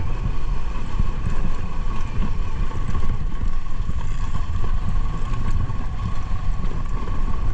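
Motorcycle running steadily while riding, with wind rushing and buffeting the microphone.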